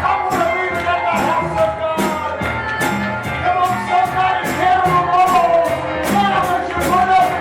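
Upbeat live church music with a quick steady beat of drums and tambourine under a wavering melody line.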